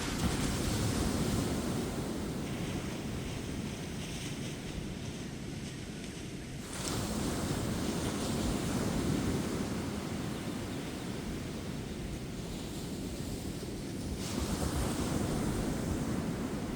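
Ocean surf breaking on a beach. The wash of the waves swells into a louder hiss three times, roughly every seven seconds.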